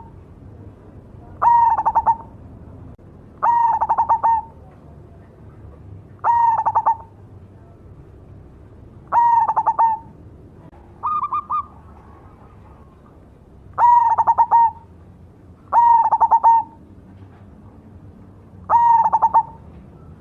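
Cemani perkutut (zebra dove) cooing its song in repeated phrases every two to three seconds. Each phrase is a quick stutter of notes ending in a held coo, and one phrase about eleven seconds in is shorter and higher.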